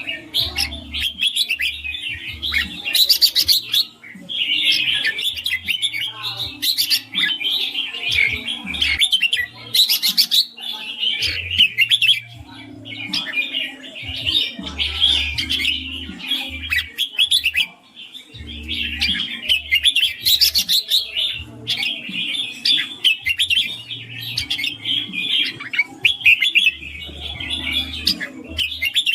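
Red-whiskered bulbul singing its rapid, continuous 'ring' song in long chattering phrases with short pauses.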